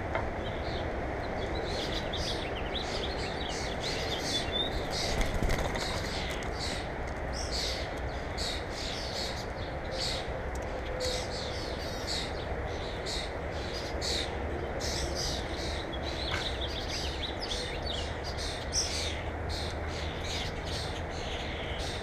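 Small birds chirping, with many short, quick chirps throughout, over a steady low background noise.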